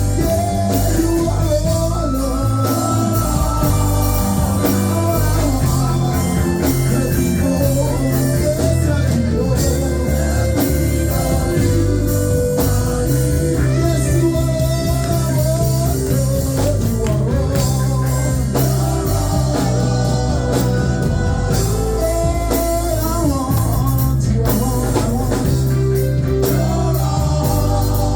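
Live gospel worship music: a band with electric guitar, bass and drums playing under singing.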